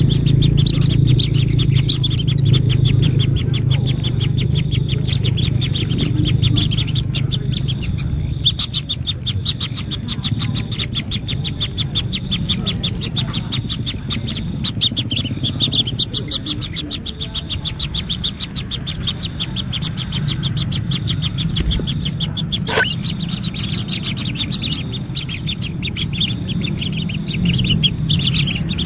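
Birds chirping: a fast, steady run of pulsing chirps over a low hum, with one short rising call about two-thirds of the way through.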